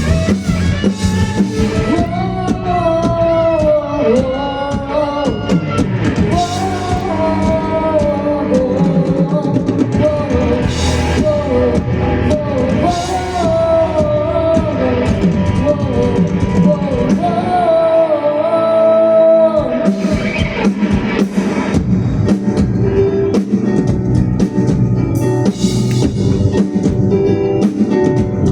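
A student rock band playing live: a lead singer over drum kit, bass, electric guitar and keyboard. The singing stops about twenty seconds in and the band carries on without vocals.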